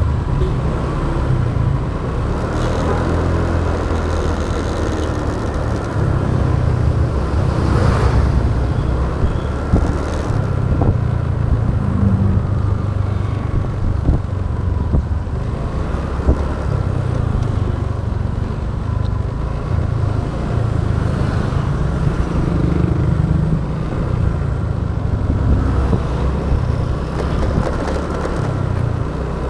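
Motorbike riding through traffic, heard on an action camera's microphone: a loud, steady low rumble of wind buffeting, with the bike's engine and the noise of other vehicles on the road.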